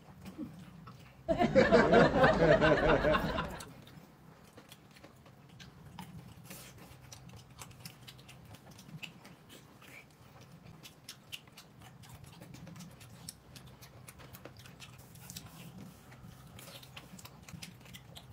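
Close-up eating sounds: a person chewing and smacking on braised pork, with many faint small clicks. About a second in, a loud wavering voice-like sound lasts about two seconds, louder than anything else.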